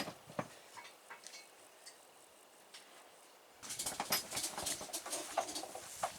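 Clinking and rattling of metal tie-down strap hardware being handled, starting about three and a half seconds in after a few faint knocks.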